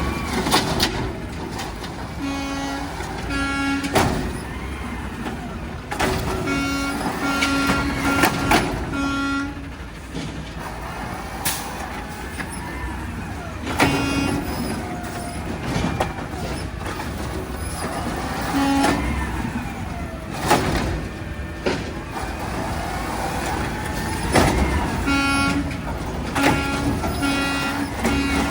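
Autocar ACX garbage truck sounding its horn in groups of short blasts over its running engine, with several sharp bangs in between.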